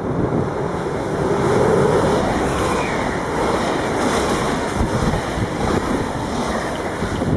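Train passing the platform, a loud, steady rushing noise of wheels on rail and air that comes in abruptly.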